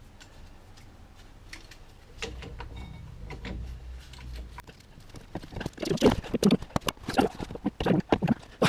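Metal clacks and knocks of a brake caliper wind-back tool being worked against the front caliper to push the piston back in. A low rumble comes about two seconds in, then a run of sharp, irregular knocks from about six seconds.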